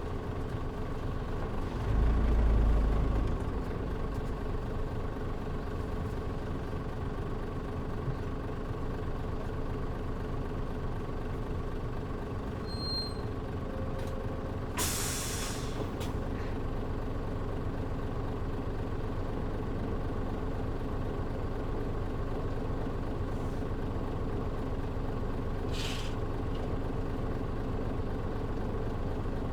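Mitsubishi Fuso KL-MP37JM city bus heard from inside the cabin, its diesel engine running steadily. A loud low thump comes about two seconds in, then a sharp hiss of air from the brakes lasting about a second near the middle, and a shorter hiss near the end.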